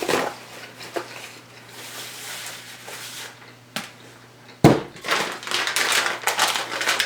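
Dishes and food containers being handled: a few light knocks, then a thump about two-thirds in followed by a run of clattering and rustling.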